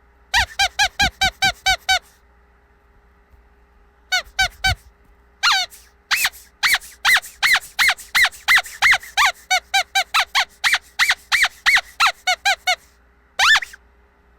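Squeaky dog toy squeezed over and over, giving short high-pitched squeaks. A quick run of about seven comes first, then a pause, a few more, and a long run of squeaks at about three a second. A single squeak comes near the end.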